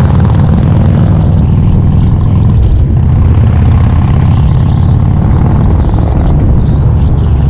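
Harley-Davidson motorcycle's V-twin engine running loud and steady while riding, its exhaust note deep and even with no sharp revs.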